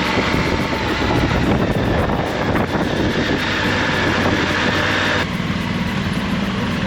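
Motorcycle engine running while riding, mixed with steady road and wind noise. About five seconds in the sound changes suddenly: the higher hiss drops away and a steady low hum takes over.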